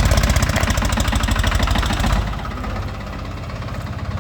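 Steeltrac 25 compact tractor's diesel engine running close by with an even, rhythmic engine pulse. About two seconds in it drops to a quieter, lower idle.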